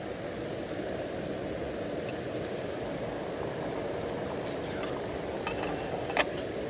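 Steady background rumble with a few light clinks, the loudest about six seconds in.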